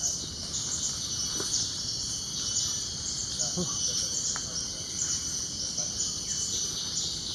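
Steady chorus of insects: a high, shrill buzz that swells and drops every second or so.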